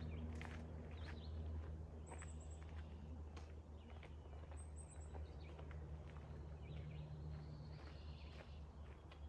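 Faint footsteps walking away on a trail over a low steady hum, with a bird giving two short, high chirping trills about two and five seconds in.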